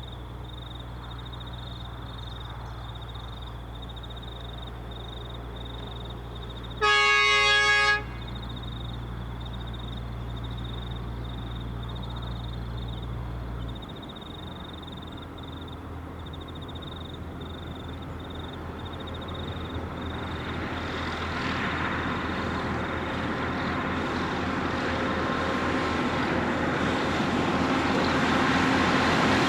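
Track-maintenance machine's horn giving one short blast of about a second, about seven seconds in. Then the diesel engines and rolling wheels of a Plasser 09-3X tamper and SSP 305 ballast regulator are heard growing steadily louder as the machines approach slowly.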